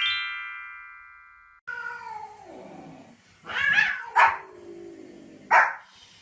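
A bright chime rings and fades. Then a dog whines in long falling cries, broken by three sharp barks.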